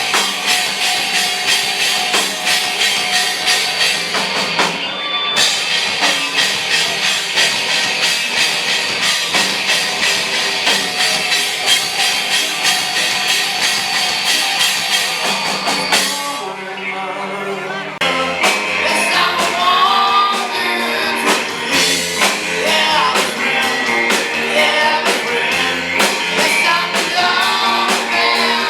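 Rock band playing loud with a singer. About 16 seconds in the music thins and drops in level for a couple of seconds, then the full band and vocals come back in.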